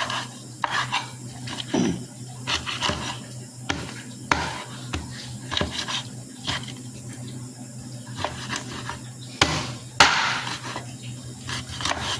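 Irregular knocks and clinks of cooking utensils against pots, dishes and a cutting board, with a sharper, louder knock near the end. A steady low hum runs underneath.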